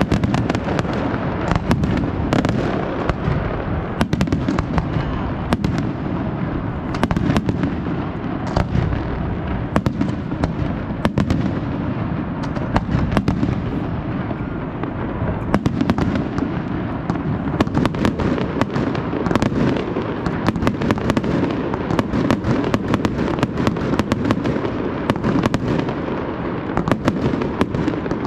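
Fireworks display: a dense, unbroken run of sharp bangs and crackles from bursting shells, over a continuous low rumble.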